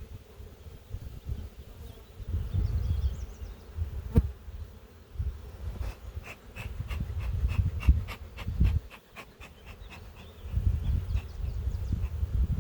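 Honeybees buzzing around an opened hive, swelling and fading as bees fly close past. There is a sharp click about four seconds in, and a run of quick, evenly spaced clicks in the middle.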